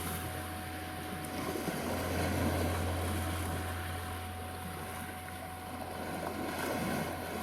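Sea waves washing steadily on the shore, under a steady pure 741 Hz meditation tone and a low, even hum.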